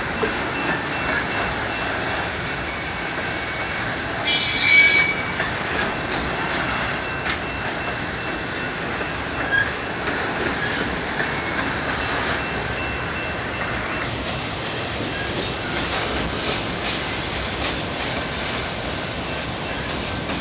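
Freight train of enclosed autorack car carriers rolling past, its wheels giving a steady rumble and rattle on the rails. A short, louder high-pitched squeal comes about four seconds in.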